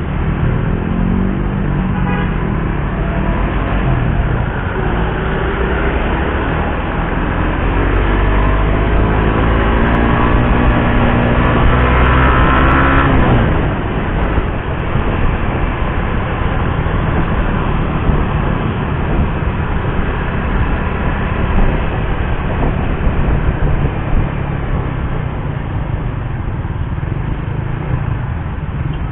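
Suzuki GSX-R150's single-cylinder engine riding along, its note climbing steadily for several seconds under acceleration and then dropping sharply about halfway through as the throttle closes, then running steadier to the end.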